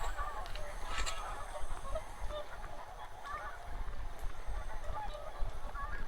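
A large flock of wild geese calling, many short honks overlapping in a continuous chorus.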